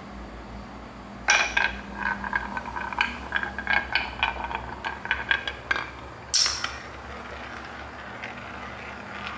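A small electric motor humming steadily, stopping near the end, with a quick run of light clicks and clinks from small hard objects knocking together and a sharper click about six seconds in.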